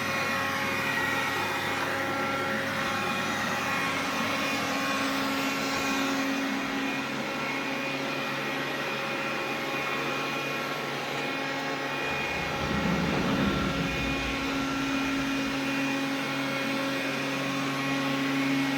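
Xiaomi vacuum cleaner running with a steady hum of several tones. About twelve seconds in, a deeper rumble joins for a couple of seconds.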